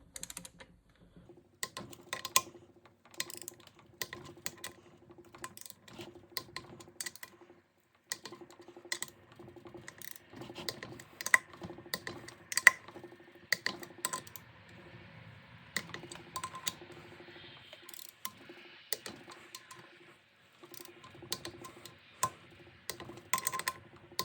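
Hand tools and metal parts clicking and clinking against the transmission in a quick, irregular run of sharp taps, over a faint steady hum.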